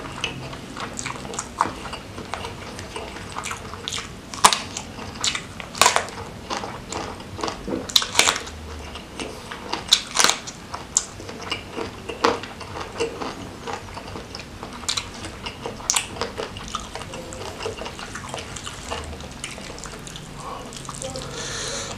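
Close-miked eating by hand: wet chewing and smacking, broken by a series of sharp, crisp crunches as mouthfuls of fried gourami, rice and raw vegetables are bitten, one of them a raw round green eggplant about ten seconds in.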